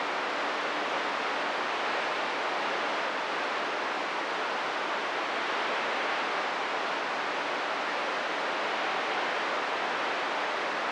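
Steady static hiss from a CB radio receiver between transmissions, with no signal coming through.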